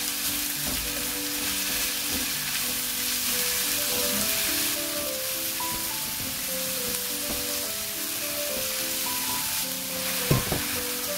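Sliced onions and julienned carrots sizzling in oil in a wok, stirred and scraped with a silicone spatula. About ten seconds in a single thump as raw ground beef drops onto the vegetables in the pan. Background music plays throughout.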